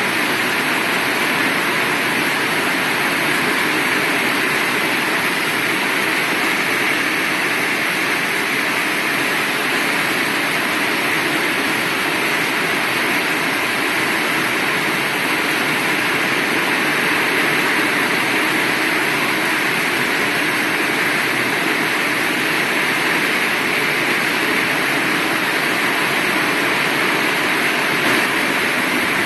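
Heavy rain falling steadily, a loud, even hiss without breaks.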